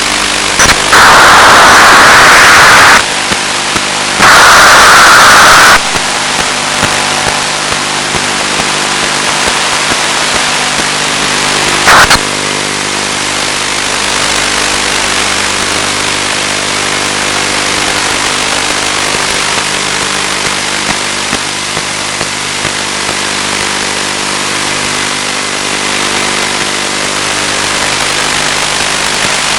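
Electric motor and propeller of a Finwing Penguin running steadily under a hiss of radio static, heard over the analogue video link's audio channel. Two loud bursts of static about a second in and about four seconds in, and a short crackle near the middle.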